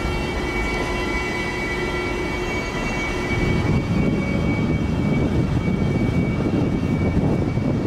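Departing electric passenger train's coaches rolling over the rails, a low rumble that grows louder about three seconds in. Steady high-pitched tones run above it and fade away near the end.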